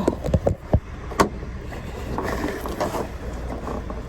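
Passenger train's steady low running rumble, heard from inside the sleeper car, with a few sharp clicks and knocks in the first second and a half.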